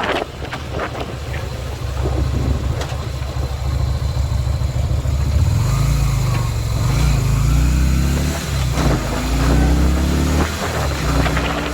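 Yamaha Virago 250's V-twin engine running under way, its pitch climbing in several rising sweeps in the second half as the bike accelerates.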